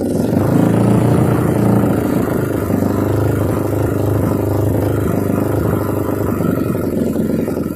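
Kawasaki KLX 200cc trail bike's single-cylinder engine running through an Over Racing aftermarket exhaust, the revs rising and falling several times.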